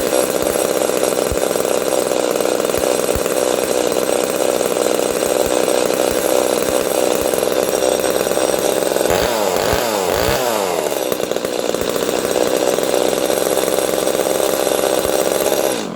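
Small two-stroke chainsaw engine running steadily, its speed wavering up and down for a couple of seconds about nine seconds in before settling again. It is running well now that its clogged fuel tank vent has been blown clear. The sound cuts off abruptly at the end.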